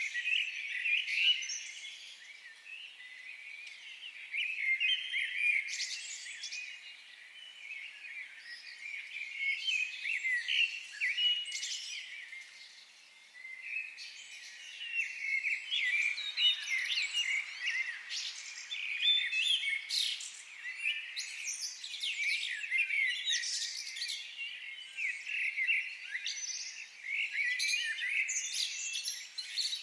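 Several forest birds singing and chirping over one another, a dense chorus of short high chirps and quick trills that never stops.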